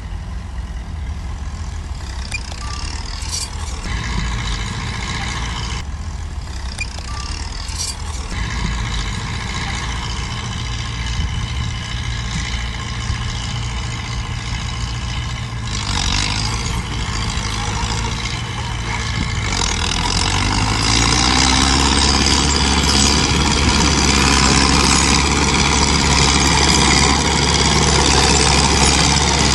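Heavy diesel engine of earth-moving machinery running steadily, then revving up and working harder and louder about two-thirds of the way through. Two brief high squeals come in the first eight seconds.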